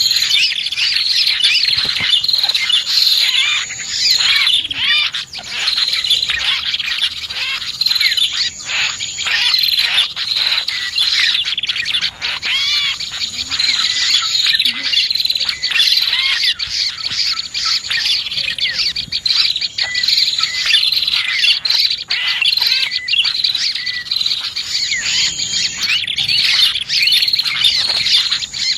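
A dense, unbroken chorus of small songbirds chirping and twittering rapidly: a bird-lure recording of prinias (prenjak) and other small birds. A thin, high steady buzz sounds in stretches over the chirping.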